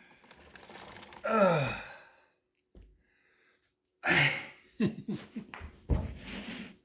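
A person sighs, the voice falling in pitch, about a second and a half in. Later comes a breathy exhale followed by several short clicks and knocks of handling.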